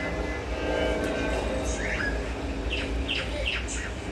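A bird chirping, a few short high chirps in a quick run near the middle and end, over a steady low hum.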